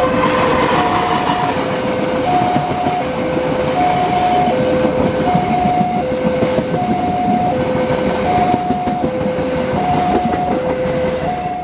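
Train passing over a railway level crossing, its wheels clattering on the rails. Over it, the crossing's electronic warning alarm sounds a two-tone high-low pattern, each note held about three-quarters of a second. Both cut off suddenly at the end.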